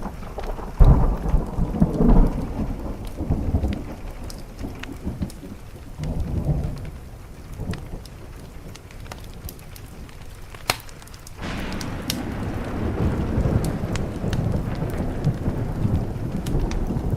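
Thunder rumbling over steady rain, loudest about a second in, with scattered sharp pops of a crackling wood fire. The rain and rumble swell again about two-thirds of the way through.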